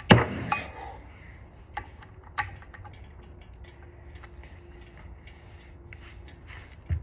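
Metal tools and engine parts clanking: one sharp, ringing metal clank at the start, followed by a few lighter clinks.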